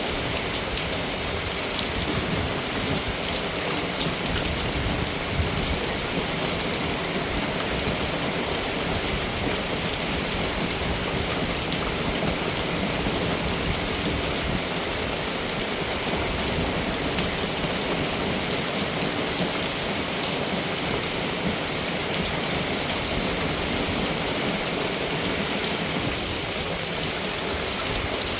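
Steady rain falling, with scattered drops striking a surface.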